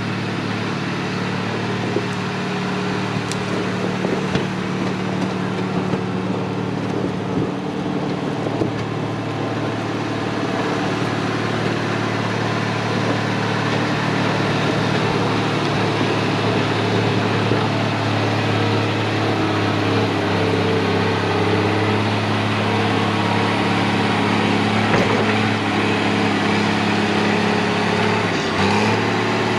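Heavy diesel engine of an earthmoving machine running steadily, working a little harder from about halfway through.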